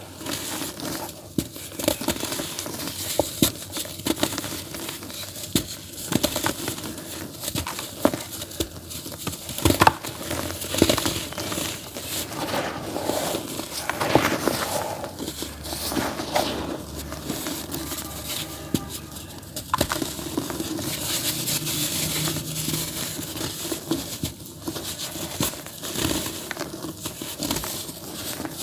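Lumps of dry earthy dirt crumbling into a tub: a steady gritty crackling and crunching, with sharper cracks now and then.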